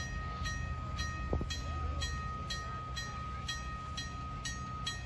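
Railway bell ringing steadily, about two strikes a second, with a sustained high ring, over a low rumble. There is a single low thump about a second in.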